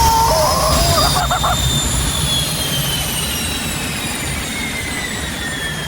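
Jet engine spooling down: a whine with several tones gliding steadily lower in pitch over a loud rush of noise that slowly fades.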